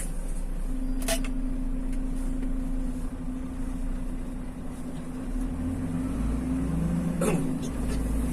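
A vehicle engine running steadily, heard from inside the cab as a low hum, with a sharp click about a second in and another near the end.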